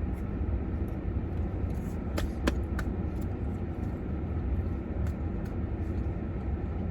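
Chewing and mouth sounds from eating a crispy chicken sandwich, with a few sharp clicks about two and a half seconds in, over a steady low rumble.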